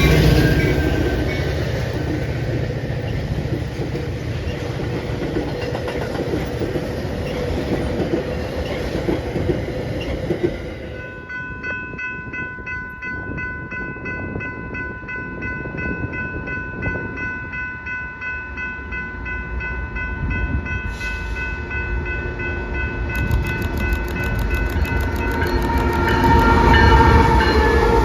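A train running through the station, rumbling and rattling on the rails. Partway through, a long steady high-pitched tone with several overtones sounds over the train for about fifteen seconds, then fades as the rumble builds again near the end.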